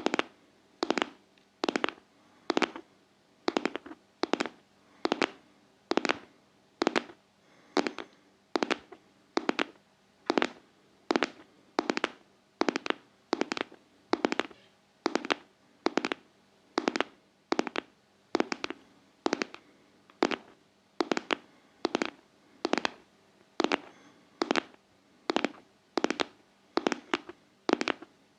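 ASMR tapping in a steady heartbeat rhythm: sharp double taps, like a lub-dub, repeating a little more than once a second.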